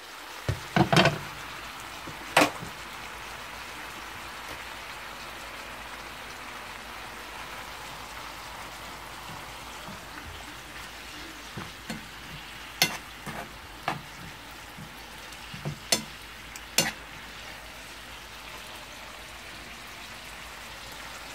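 Shishito and yellow bell peppers frying in a pan with a steady sizzle, which comes up as the glass lid is lifted off at the start. Sharp knocks near the start and a scattered run of them in the second half from a spoon and utensils striking the pan during stirring.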